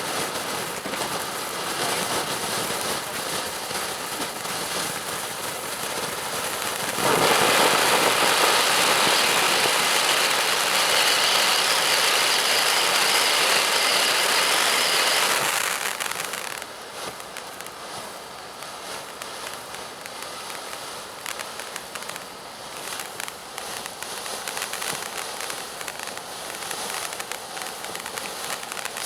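Ground fountain firework spraying sparks with a steady hissing crackle. It surges louder about seven seconds in and falls back to a quieter hiss about sixteen seconds in.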